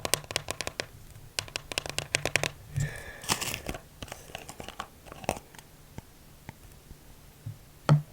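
Plastic packaging crinkling and tearing as a slime container is opened. There is a quick run of sharp clicks and taps in the first couple of seconds, a denser rustle about three seconds in, and one loud click near the end.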